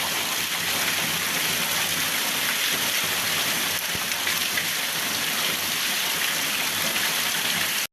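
Steady rain falling, a dense even hiss of many drops, which stops abruptly near the end.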